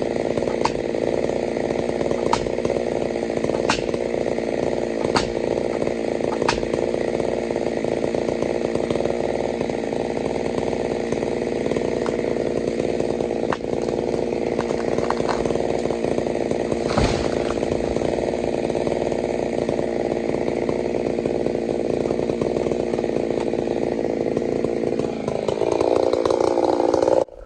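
Chainsaw with a 32-inch bar running at high throttle, cutting into a tamarack tree. There are a few sharp ticks in the first several seconds. Near the end the engine note rises before the sound cuts off suddenly.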